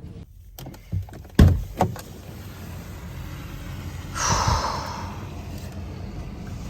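Door of a Mercedes Sprinter van being worked: a few latch clicks and a loud knock about a second and a half in, then a brief scraping slide a little after four seconds.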